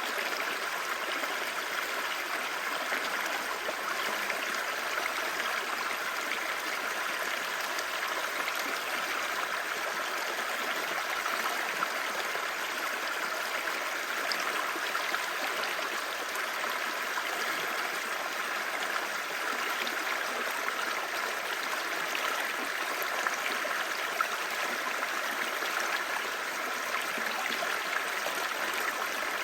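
Clear shallow stream babbling steadily over rocks, an even rushing and gurgling of water.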